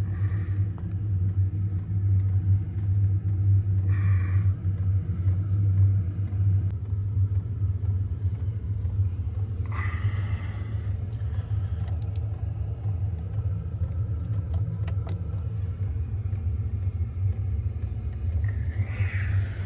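Diesel parking heater running with a steady low hum through the night, broken by a few brief sounds about four, ten and nineteen seconds in.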